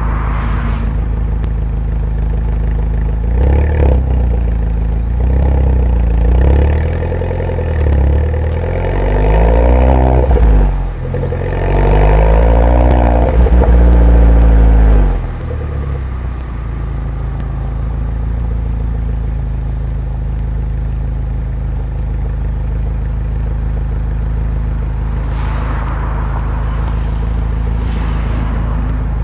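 Mini Cooper R57 John Cooper Works' turbocharged 1.6-litre four-cylinder through its stock exhaust, rising and falling in pitch several times as it revs up and drops back. A little over halfway in the revs fall away suddenly and it settles into a steady low drone.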